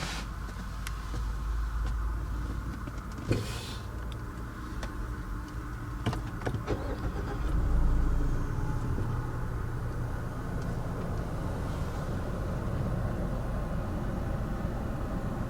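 Steady low hum inside a 2015 Mazda CX-5's cabin, with a sharp knock and a short hiss about three seconds in and a few clicks around six seconds, as parts of the car are handled.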